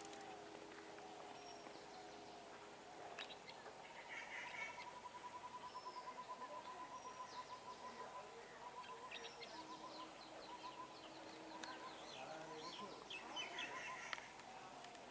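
Birds chirping and calling softly, with a rapid trill through the middle and a steady high-pitched whine underneath.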